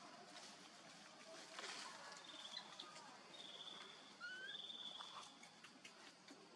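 Faint high, thin whistled calls, several of them trilled and one rising, over quiet background hiss: bird calls.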